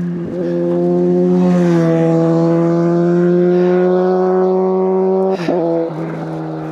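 A motor vehicle's engine running close by, a loud steady engine note that shifts slightly in pitch about a second and a half in and breaks briefly about five and a half seconds in.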